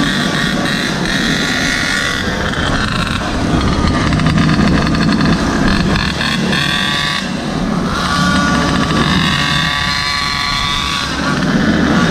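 Small engine of a mini bike or stand-up scooter running under way, its revs climbing twice with a short drop about seven seconds in, over a low steady rumble.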